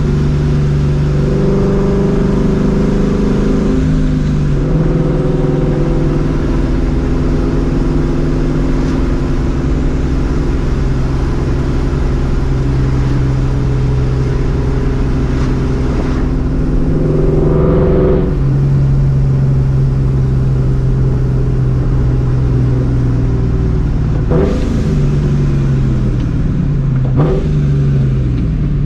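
Supercharged Ford Mustang GT V8 through a catless Borla ATAK exhaust, cruising and accelerating through the gears. The engine note climbs and then drops at gear changes several times, most clearly about 18 seconds in.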